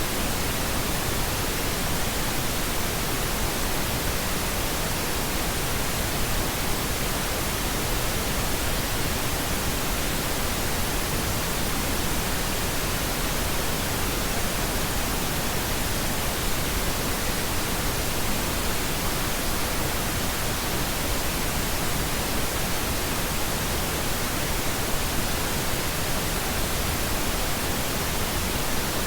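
Steady synthetic pink noise: an even, unchanging hiss spread across the whole range, without pauses or changes.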